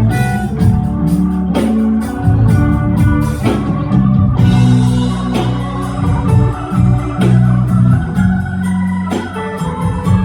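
A live blues band playing an instrumental passage: organ holding chords over guitar, with steady drum hits.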